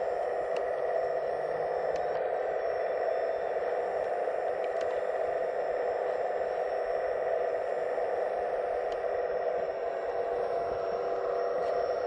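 Electric hydraulic pump of a 1/15-scale RC excavator running steadily, giving an even, high-pitched whine, with a few faint clicks.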